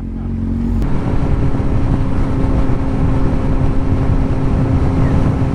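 2007 Kawasaki Z1000's inline-four engine running at steady revs while riding, with steady wind and road noise. About a second in, the engine note steps up a little and gets slightly louder.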